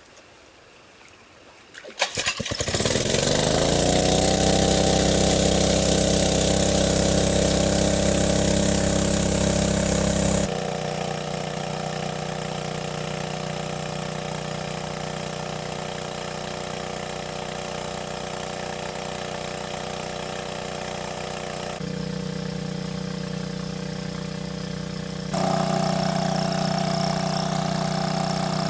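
Small engine started about two seconds in, its pitch rising as it catches and then settling into a steady run. The sound drops abruptly about ten seconds in and changes again twice near the end.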